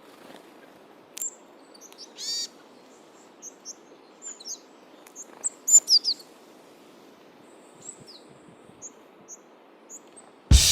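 Small wild birds calling: scattered short high chirps and whistles, with a few sharper calls about six seconds in, over a faint steady outdoor hiss. Drum-led music cuts in suddenly near the end.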